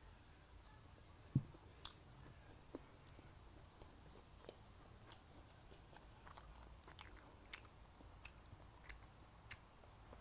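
Close-miked mouth sounds of a person chewing food, faint and wet, with a low thump about a second and a half in. Several short sharp clicks of wooden chopsticks against a ceramic rice bowl come in the second half.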